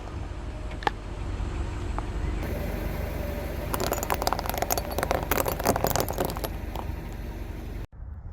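Car tyre rolling over and crushing crunchy objects: a dense run of crackles and snaps lasting about three seconds, over the low rumble of the car. The sound cuts out abruptly near the end.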